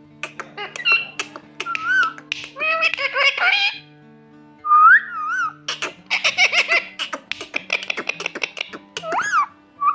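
Indian ringneck parrot chattering and whistling in quick runs, with notes that slide up and down in pitch and bursts of harsh clicking, over background music.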